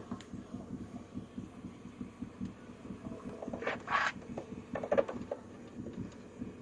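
Chevrolet 5.3-litre V8 engine, pulled from a 2000 Silverado, idling with a steady low throb; a couple of brief noises stand out about halfway through.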